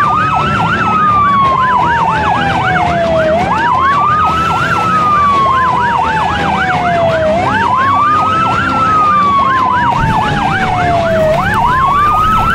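Emergency-vehicle sirens, two at once: a slow wail that rises and falls about every four seconds, and a faster warble sweeping up and down about three times a second.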